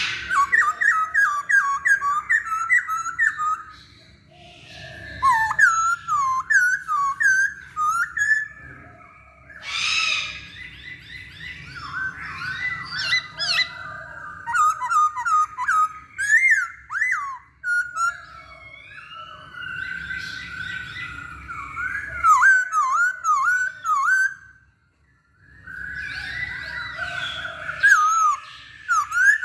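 Poksay Hongkong (a laughingthrush) singing: loud, rapid, varied whistled phrases in bursts with short pauses, and thin high chips layered above.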